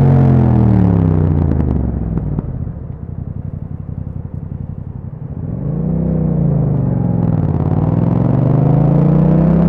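2021 Yamaha MT-07's 689 cc parallel-twin engine through an Akrapovic exhaust: the revs fall as the bike slows, the engine idles with a quieter pulse for a few seconds, then revs rise as it pulls away, dipping once at a gear change before climbing again.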